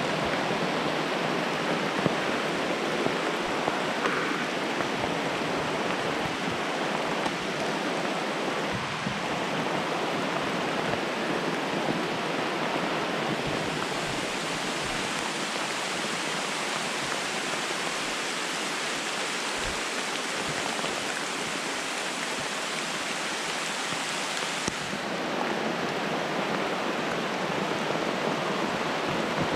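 Heavy rain falling steadily, an even hiss. Between about 14 and 25 seconds in it turns brighter and hissier, then settles back.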